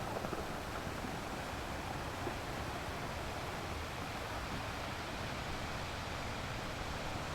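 Steady ocean surf, an even wash of noise with no single wave standing out.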